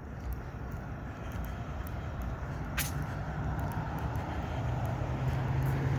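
A motor vehicle's engine running with a low rumble and hum that grows steadily louder, and a single sharp click about three seconds in.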